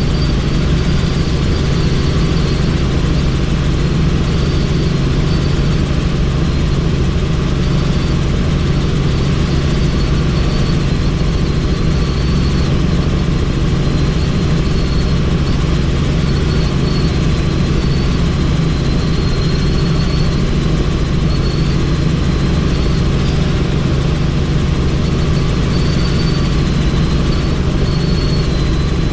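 Helicopter in flight heard from on board: steady, loud engine and rotor noise with a low hum and a faint high whine above it.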